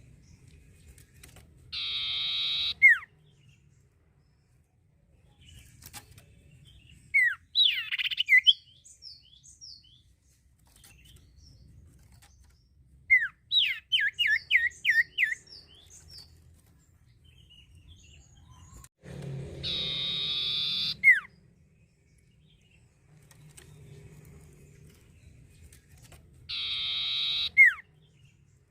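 A songbird singing: a long buzzy note of about a second, ending in a quick upward flick, repeated three times, with a short chattering phrase and a quick run of about seven sharp, falling notes in between.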